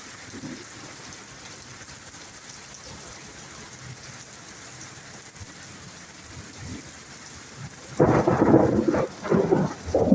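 Steady rain falling, then about eight seconds in a sudden loud thunderclap from a close strike that crackles and rolls in several surges for about two seconds.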